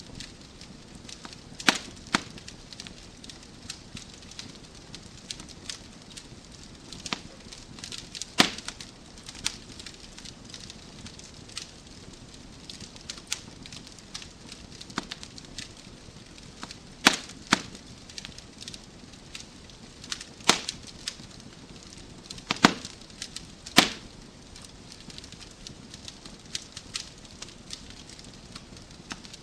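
Wood fire crackling in a fireplace: a soft steady hiss with irregular sharp pops and snaps from the burning logs, a few of them much louder than the rest.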